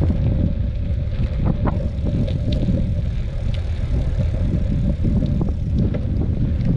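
Wind buffeting the microphone during a bicycle ride, a loud low rumble, with scattered light ticks and rattles from the bike and a faint steady hum underneath.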